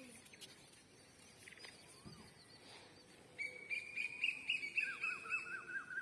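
A bird calling outdoors: a fast series of short repeated high notes starts about three and a half seconds in, joined by a second, lower run of notes about a second later.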